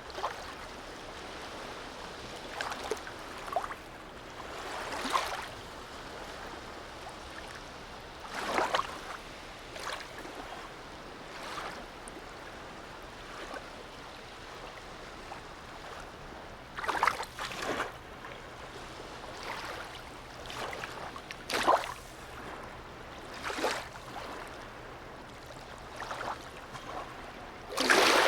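Small sea waves lapping and splashing irregularly against a harbour edge, over a steady hiss of water.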